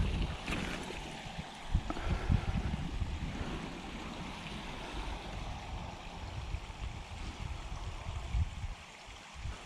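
Steady wash of water noise, with irregular low thumps on the microphone.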